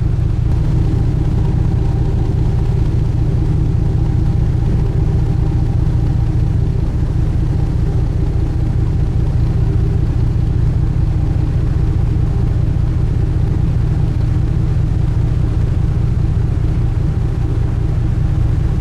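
Sightseeing cruise boat's engine running at a steady cruising speed: a loud, even, low drone with a faint hiss over it.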